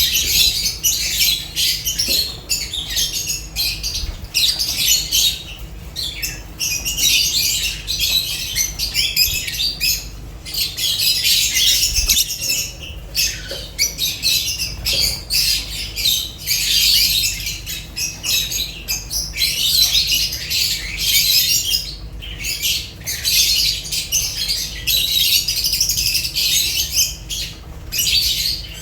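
Lovebirds chirping and screeching without pause, shrill and high, in a flock's continuous chatter.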